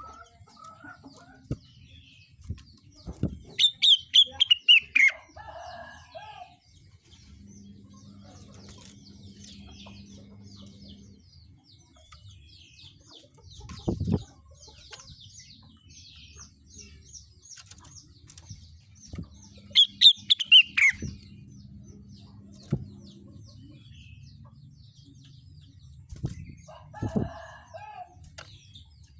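Rengganis songbird singing: two loud bursts of rapid notes sliding down in pitch, about 4 and 20 seconds in, over a steady run of faint high chirps. A few short dull thumps fall between them.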